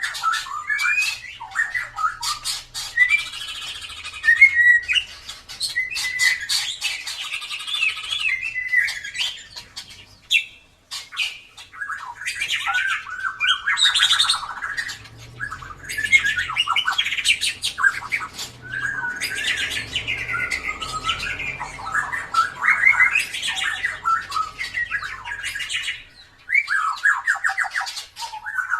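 White-rumped shama singing a long, varied song of rapid whistles, warbles and sharp clicking notes, with a brief break about ten seconds in and another shortly before the end.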